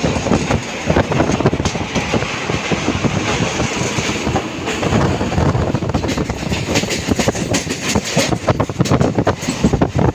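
Train running along the track, a continuous loud clatter and rattle of wheels over the rails.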